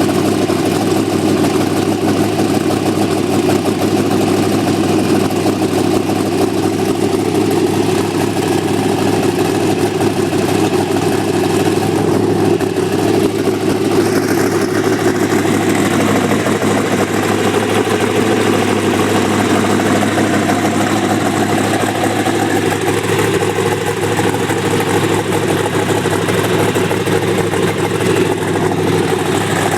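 Twin-turbocharged 454 V8 running steadily at idle on its second fire-up.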